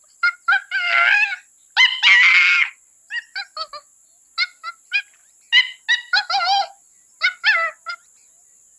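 Chimpanzee calling: runs of short, pitched hoots in quick groups of three or four, broken by three longer wavering screams, about a second in, around two seconds in, and a little past six seconds.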